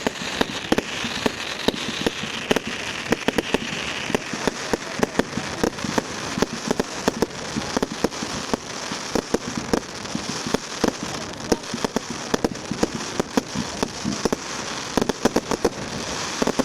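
Fireworks display: a dense, irregular barrage of sharp bangs and crackling, several reports a second without let-up.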